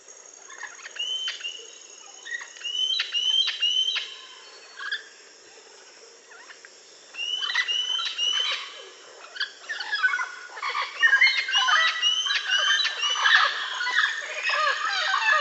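A flock of parrots and other birds chirping and calling, many short high calls overlapping. The calls are scattered at first, thin out for a couple of seconds, then return dense and continuous from about ten seconds in.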